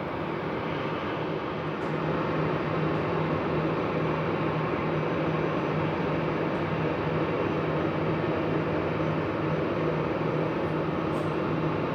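Boeing 777 freighter's GE90 turbofan engines on final approach: a steady jet noise with a low drone, growing slowly louder as it nears.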